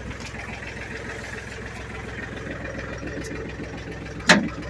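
Ford 1720 compact tractor's three-cylinder diesel engine idling steadily, with one sharp metallic clank near the end.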